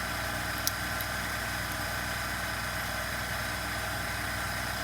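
A steady, unchanging hum of several fixed tones, with one small sharp click about two-thirds of a second in.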